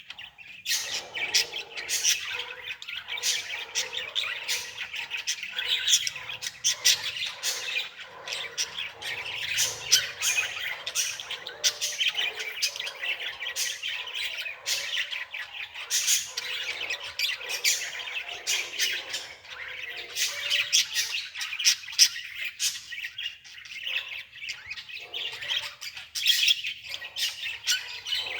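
Many birds chirping and squawking together, a dense run of short calls.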